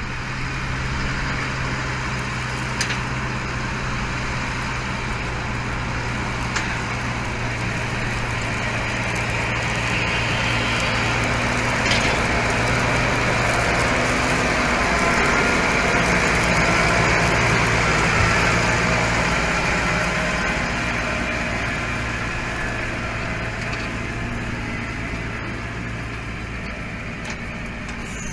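A machine's engine running steadily, a constant low hum under a broad working noise that grows louder in the middle and eases off toward the end.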